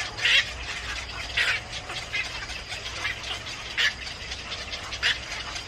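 Bird calls: about five short, harsh chirps spaced irregularly, over a steady low hum.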